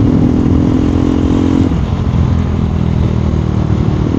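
2024 KTM Duke 390 Gen 3's single-cylinder engine running under way. Its steady note breaks off and drops lower a little under halfway through.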